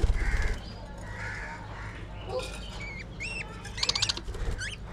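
Budgerigars chattering: a short harsh, rapidly pulsing burst at the start, then quick high chirps and warbles that slide up and down in pitch, busiest about three to four seconds in. A low steady hum runs underneath.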